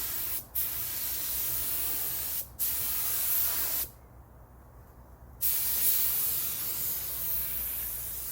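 Harbor Freight compressed-air paint gun spraying base coat: a steady hiss in passes. The trigger is let off briefly twice in the first few seconds, then for about a second and a half in the middle, and the spraying stops at the end.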